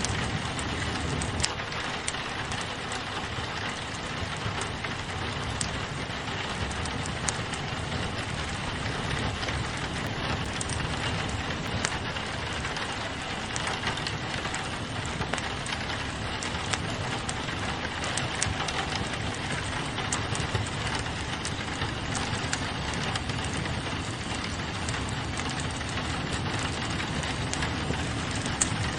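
Steady rain on a window mixed with a crackling wood fire, with scattered short sharp crackles throughout.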